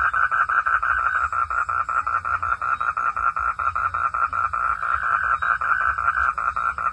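A frog calling in a fast, steady train of pulses, several a second, with a low rumble underneath.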